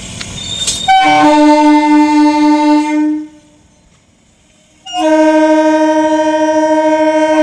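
Electric multiple unit local train's air horn sounding two long blasts, each with a brief higher note at its start and lasting about two to three seconds.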